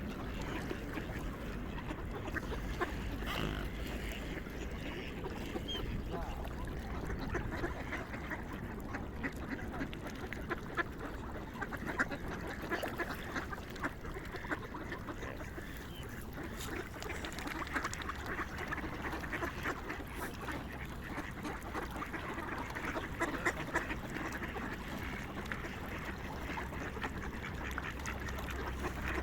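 A flock of swans calling without pause: many short calls overlapping in a dense, unbroken chatter.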